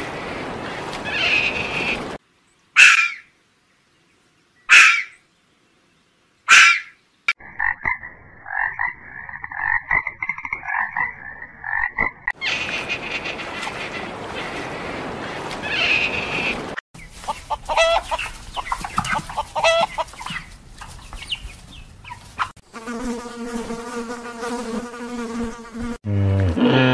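A run of different animal calls from separate short clips: three short, loud calls about two seconds apart, then several seconds of pulsing trills, later rapid clicking and a low, steady call near the end.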